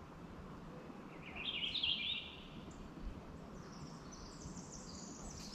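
A small songbird singing: a short, quick trill about a second and a half in, followed by a long run of very high, thin notes stepping up and down, over faint outdoor background noise.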